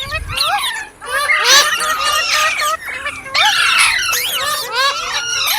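Green rose-ringed (Indian ringneck) parakeets chirping and squawking: a dense run of quick, overlapping calls that sweep up and down in pitch.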